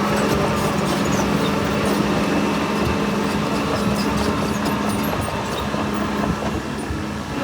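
Heavy earthmoving machine's diesel engine running steadily, with faint scattered clicks and knocks over the engine noise.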